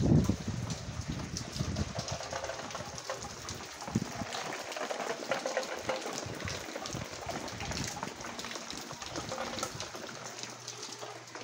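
Steady rain falling, with many separate drop hits over an even hiss and water running off along the ground.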